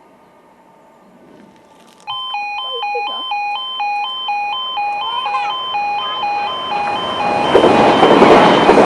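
Level crossing warning alarm switching on about two seconds in: a loud two-tone yodel alternating evenly between a lower and a higher note, warning that a train is approaching. Near the end a loud rushing noise swells up under the alarm.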